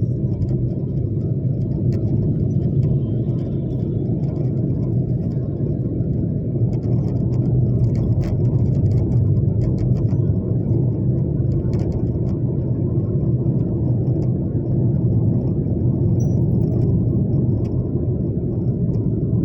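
Steady low rumble that does not change, with no distinct events, of the kind heard as road noise from a moving vehicle.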